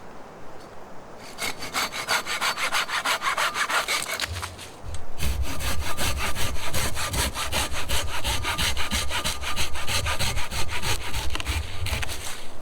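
Hand saw cutting through wood in quick, even back-and-forth strokes. The strokes pause briefly about four seconds in, then carry on.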